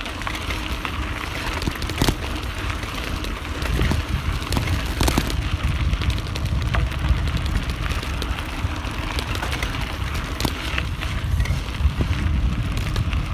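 A bicycle coasting fast downhill: wind rumbles on the phone's microphone in its handlebar holder, over steady tyre noise, with scattered sharp knocks and rattles as the bike runs over bumps.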